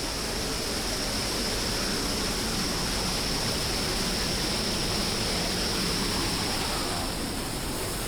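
Steady rush of a waterfall and its stream pouring over rocks, an even white-noise hiss.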